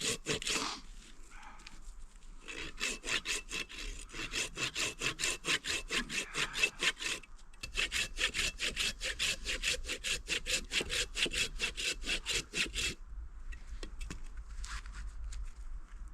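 Hand saw cutting through wood in quick, even strokes of about four a second. It stops briefly near the start, runs again, pauses for a moment about seven seconds in, then carries on until about thirteen seconds in, after which only faint handling sounds remain.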